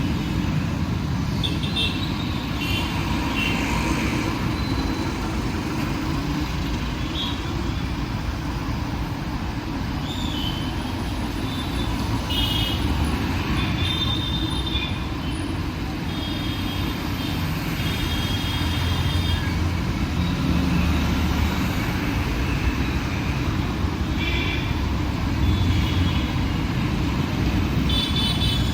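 Busy city street traffic: engines and tyres running steadily, with short vehicle horn toots now and then.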